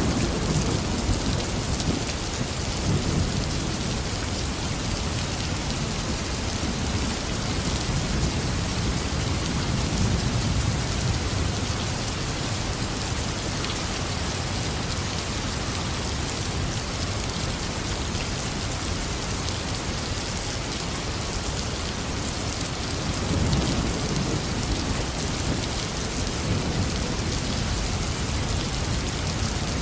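Heavy rain falling steadily, with low thunder rumbling underneath; the rumbles swell near the start, again around ten seconds in, and once more a little past twenty seconds.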